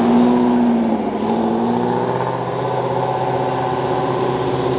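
A car engine running under way, its pitch easing down in the first second or so and then holding steady as the car drives.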